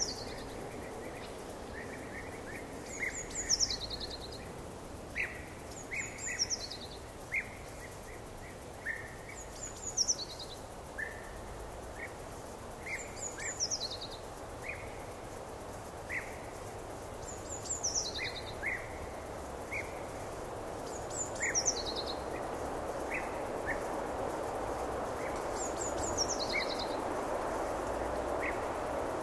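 A songbird singing a short phrase of high notes that falls in pitch, repeated about every three to four seconds, with other brief chirps over a steady background hiss.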